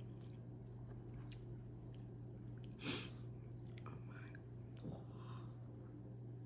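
Person chewing malatang close to the microphone, with a sharper, louder eating sound about three seconds in and a smaller one near five seconds, over a steady low hum.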